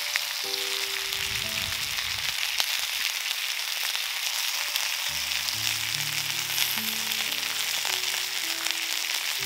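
Ribeye steak, vegetables and mushrooms frying in rendered fat-tail lard on a hot stone slab over strong heat: a steady sizzling hiss. Soft background music with held low notes plays underneath.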